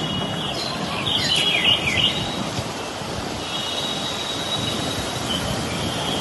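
Strong storm wind rushing steadily, with high-pitched squealing whistles that bend in pitch about a second in and come back more faintly near the end.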